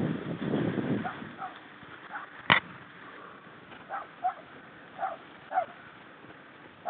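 A dog barking, short separate barks coming every second or so, often in pairs. There is a single sharp click about two and a half seconds in.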